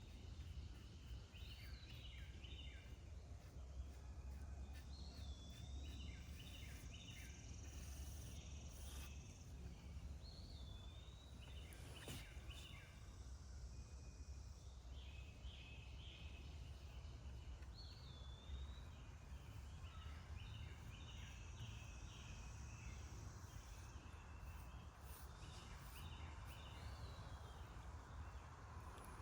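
A songbird singing the same short phrase over and over, about every four to five seconds: a swooping high note followed by a quick run of choppy notes, over a faint steady low rumble.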